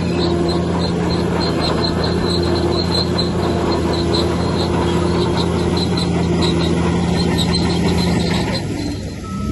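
Bulldozer's diesel engine running steadily, with a rapid, regular high-pitched squeak over it. The engine note drops briefly near the end.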